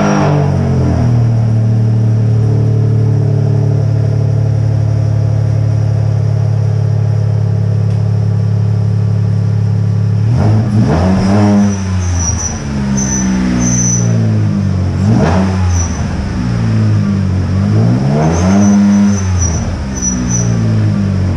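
2014 Dodge Charger's 3.6 L Pentastar V6 through Flowmaster Super 10 mufflers, just cold-started after sitting for a month and a half. It idles steadily for about ten seconds, then is revved about five times, the pitch rising and falling with each blip.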